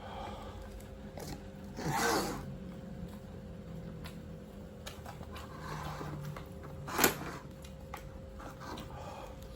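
A person eating instant cup noodles close to the microphone: a noisy slurp about two seconds in, softer mouth and chewing sounds, and a sharp click about seven seconds in. A faint steady hum runs underneath.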